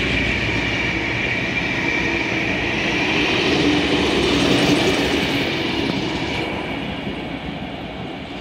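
A heritage passenger train hauled by 42 class diesel locomotive 42101, its carriages rolling past on the rails with a thin steady high tone over the wheel noise. The sound fades over the last few seconds as the train draws away.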